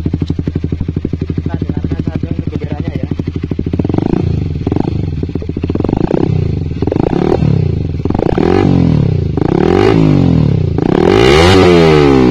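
Honda CBR150R K45's single-cylinder engine through a Proliner TR1 long carbon full-system exhaust with its dB killer removed, idling with an even pulse. About four seconds in, the throttle is blipped in a series of short revs, the last ones near the end higher and held longer.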